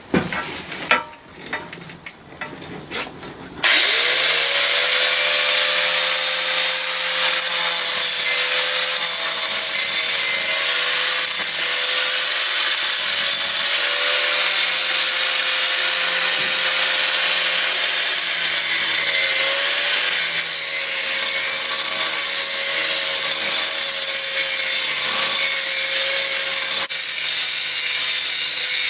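A few knocks and handling clicks, then about three and a half seconds in an angle grinder spins up with a rising whine and runs steadily, its grinding wheel grinding down a 5160 spring-steel blade.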